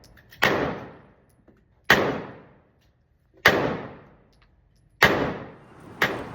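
Gunshots at a shooting range: four loud single shots about a second and a half apart, each with an echoing tail, and a weaker fifth shot near the end.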